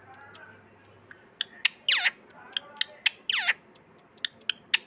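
Pet parrot squawking: two loud calls that fall steeply in pitch, about two seconds in and again a second and a half later, mixed with short sharp chirps.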